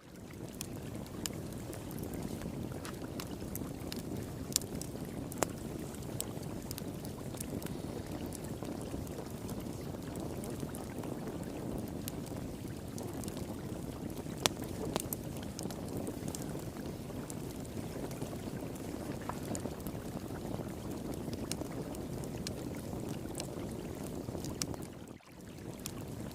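Wood fire crackling with scattered sharp pops over the steady rush of flowing water; the sound dips briefly near the end.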